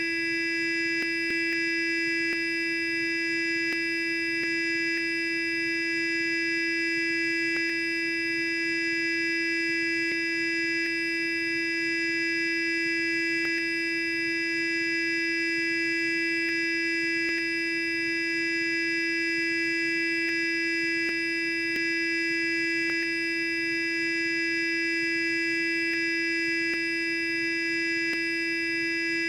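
Electric sonic toothbrush running continuously: a steady, unchanging buzzing hum with many overtones and faint ticks now and then.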